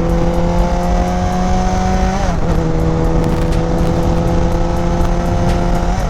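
Yamaha FZ1's inline-four engine pulling in gear, its pitch rising slowly, with a quick upshift about two seconds in and another near the end. Heavy wind noise on the microphone runs underneath.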